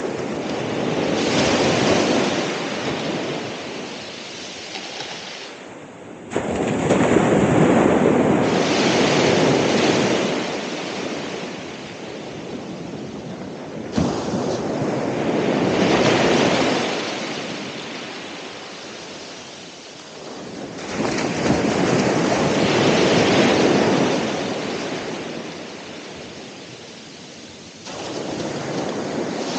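Ocean waves breaking and washing up the shore, rising and falling in slow surges about every seven seconds.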